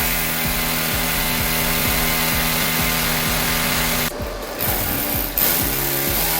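A power tool motor running under load, dropping away briefly about four seconds in and starting again.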